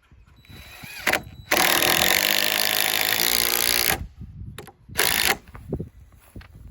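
Power drill driving deck screws into 2x6 lumber: a brief burst, then about two and a half seconds of steady running under load with a motor whine, then another short burst.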